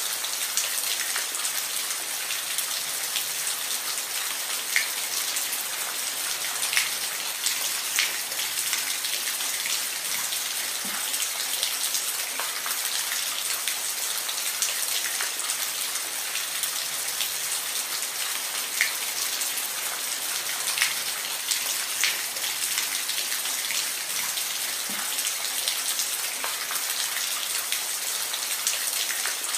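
Steady rain with a constant hiss and scattered, louder individual drops ticking close by.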